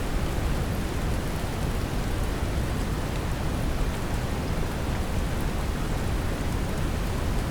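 Steady brown noise, deep and even, mixed with gentle rain, with faint light drop ticks on top.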